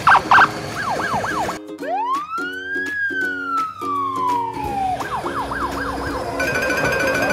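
Police siren: quick yelps, then one long wail that rises and slowly falls, then quick yelps again, over looping background music.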